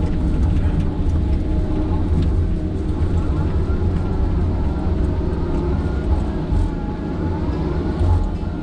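Diesel engine of a heavy logging machine running steadily under work, with a faint whine that rises and falls a few times over it.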